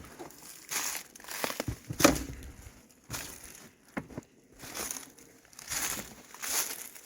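Footsteps, one about every three-quarters of a second, each a short, noisy scuff.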